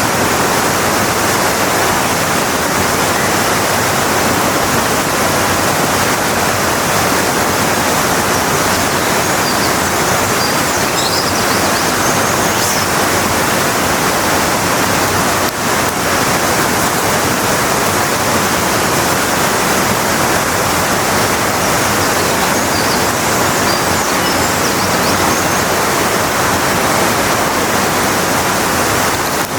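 Waterfall running with a steady, loud rush of falling water.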